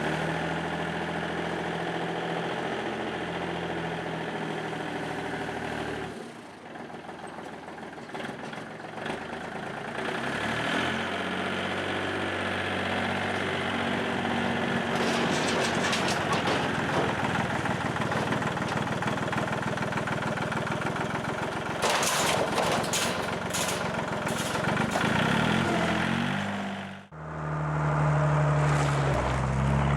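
Car engine idling steadily, dropping away about six seconds in, then running louder for a long stretch. It cuts off sharply near the end and then idles again.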